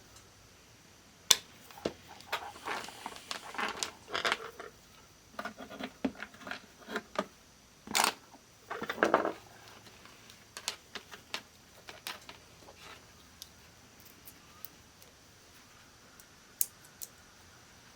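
Irregular clicks, taps and short scrapes of small objects being handled, busiest through the first half and thinning to a few scattered clicks later.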